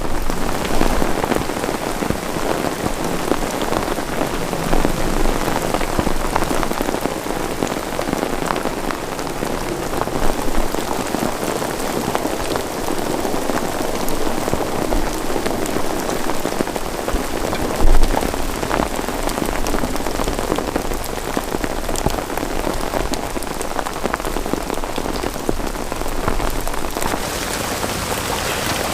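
Heavy rain falling steadily, with a dense hiss and many small drop impacts. A single louder low thump comes about eighteen seconds in.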